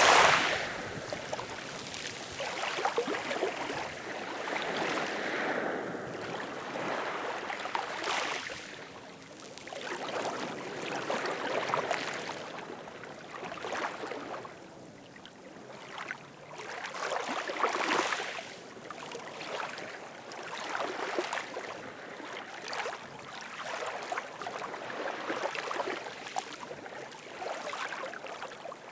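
Ocean waves breaking and washing up the shore, the surf swelling and fading in repeated surges every few seconds.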